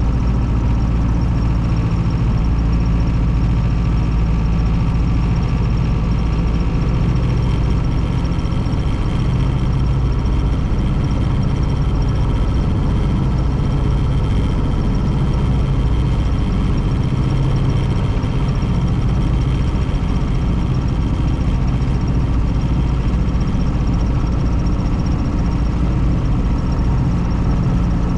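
1932 Ford Model B's four-cylinder flathead engine running steadily at an even, low pitch.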